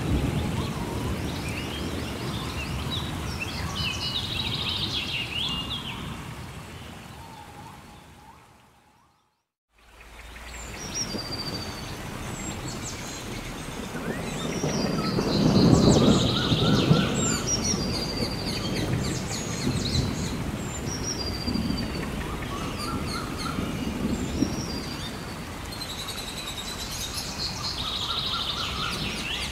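Rain and rumbling thunder with a few bird chirps, fading out to a moment of silence about a third of the way in. Then birds chirp and whistle over a steady rain hiss, with a low thunder rumble swelling near the middle.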